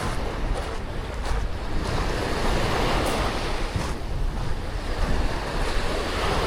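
Sea waves breaking and washing up on the beach, the surf swelling and easing, with wind rumbling on the microphone.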